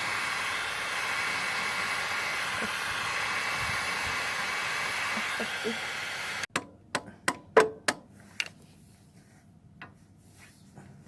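A loud, steady hissing rush that cuts off abruptly about six and a half seconds in. It is followed by a handful of sharp clicks and knocks, typical of metal engine parts and tools being handled, then near quiet.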